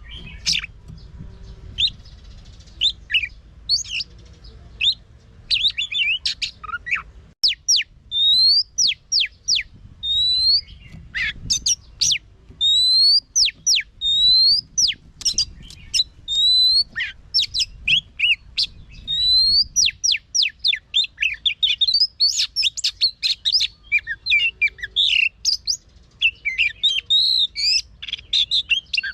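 Oriental magpie-robin singing a varied song of loud whistled notes. In the middle a rising whistle repeats about every two seconds, and near the end the notes come faster and denser.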